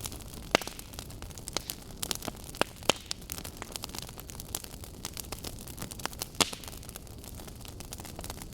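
Burning wood logs crackling and popping: irregular sharp snaps over a steady hiss, with a few louder pops about half a second in, around three seconds in and past six seconds.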